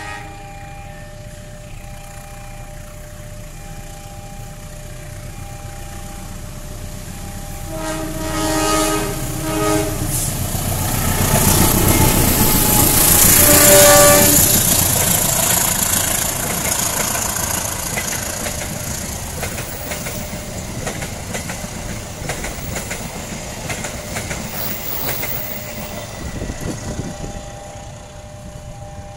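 CC201 diesel-electric locomotive hauling a passenger train past at speed: its horn sounds about a quarter of the way in and again briefly at the loudest point as the locomotive passes, then the carriages rumble and clatter over the rails, fading toward the end. A steady level-crossing warning tone rings at the start and again near the end.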